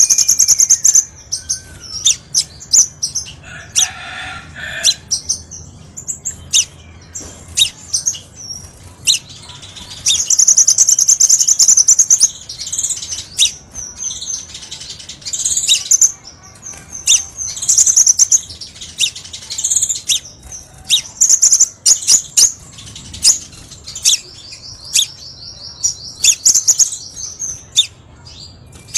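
Crimson sunbird singing: a rapid string of sharp, high-pitched chirps broken by fast trilled phrases, the longest about ten seconds in and again near the end.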